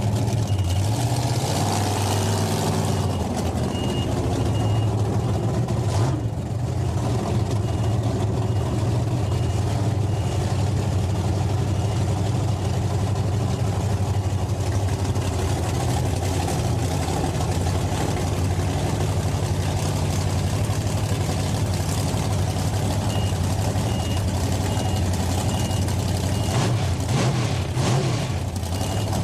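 Heavy truck engine running steadily at low revs, with a faint high beep pulsing on and off at times.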